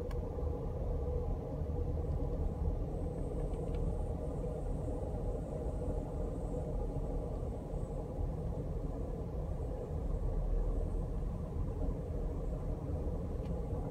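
Steady low rumble of a moving passenger train heard from inside the car: wheels running on the rails, with a faint steady hum over it.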